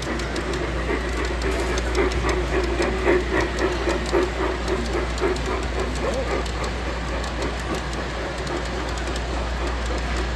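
A model train running on a layout, with fine clicking over a steady din.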